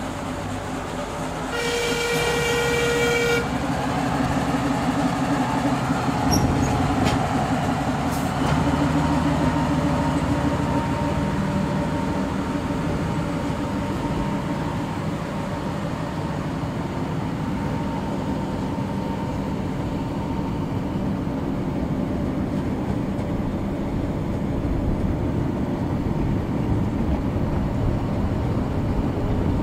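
Narrow-gauge train's horn sounds once for about two seconds, then the train pulls away with a steady low engine drone and rolling noise from the carriage.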